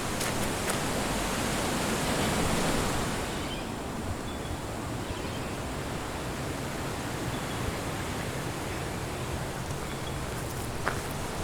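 Wind gusting through the trees, a rushing noise that swells over the first few seconds and then eases to a steady rush.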